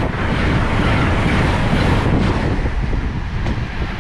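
Wind buffeting the microphone, a loud rushing noise with a heavy, fluttering low rumble that eases a little near the end.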